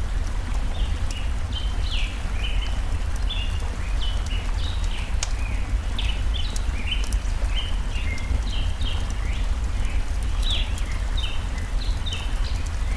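Nature ambience: a steady low rush of stream water under many quick, short bird chirps that keep going without pause, with thin snaps of a crackling wood fire here and there.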